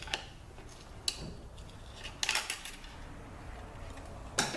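Light metallic clinks and taps of hand tools and parts against an automatic transmission case during teardown: a few single clicks and a quick run of several near the middle.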